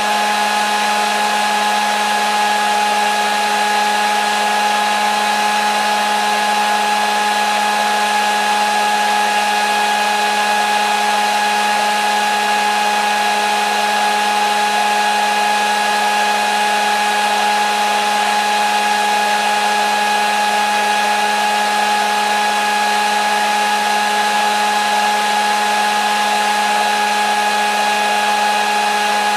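Hair dryer running steadily: an even rush of blown air with a constant motor whine and hum.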